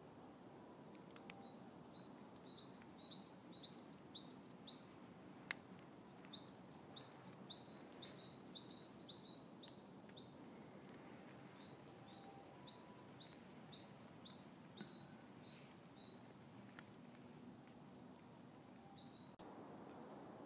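A songbird singing faintly in the woods: three runs of quick, high notes, each note falling in pitch, with a short fourth run near the end. Faint steady background hiss, and a single click about five seconds in.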